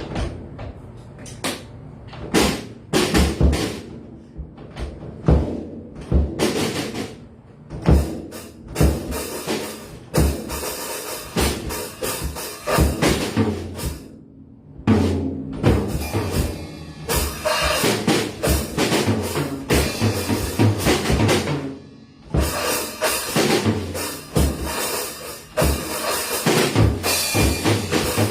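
Drum kit being played: bass drum and snare hits, sparse at first, then building into a fuller beat with cymbals washing over it. The playing stops briefly twice, about halfway through and again about three quarters of the way in.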